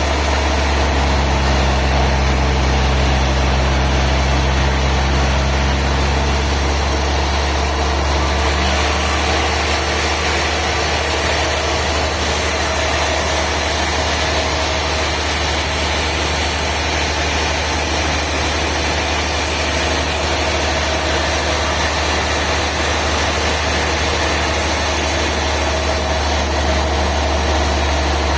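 An engine running steadily at a constant speed, a low drone with no speech over it; a higher hum in the drone fades out about seven seconds in.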